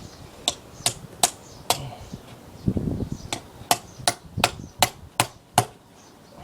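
Hammer striking a steel chisel as it cuts into a solid log, hollowing out a trunk beehive. There are four sharp strikes, a short low rumble, then seven more quicker, even strikes.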